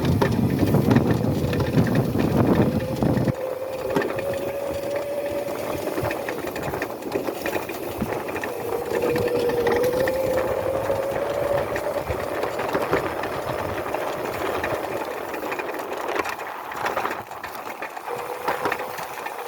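Razor electric dirt bike's motor whining while it is ridden, the whine drifting slowly up and down in pitch with speed. For the first few seconds, wind rushes on the microphone.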